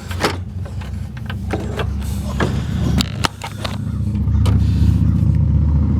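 Sharp plastic clicks and knocks as a plastic cap in the car's radiator fan area is twisted back and forth, over a steady low motor hum that grows louder about four seconds in.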